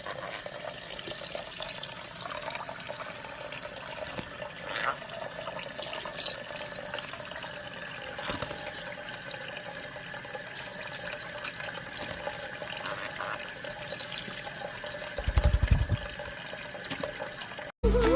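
Steady running water, like a tap running, with a short run of low thumps about fifteen seconds in.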